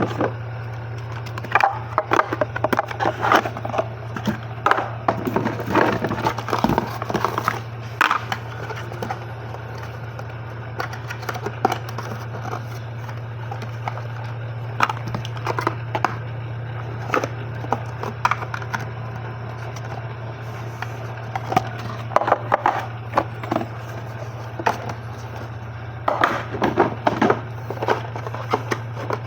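Cosmetic racks and their packaging being handled and unwrapped: irregular crinkling, rustling and light clacks, over a steady low hum.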